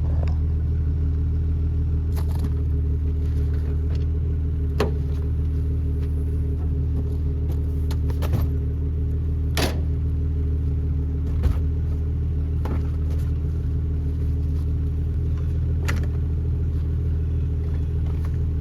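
A vehicle engine running steadily at idle, its pitch unchanging, with a few scattered sharp clicks and knocks.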